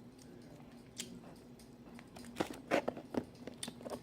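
Close-up eating sounds: a click about a second in, then a run of sharp crunches and clicks in the second half, over a faint steady hum.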